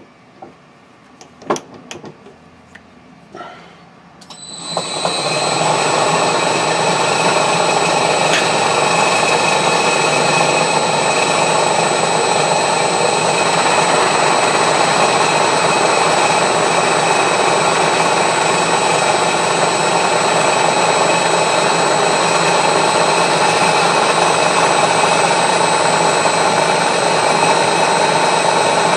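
A few light knocks, then about four and a half seconds in a milling machine starts up and runs steadily with a thin high whine, taking a skim cut across the top of a steel wood-chipper blade held in a vice.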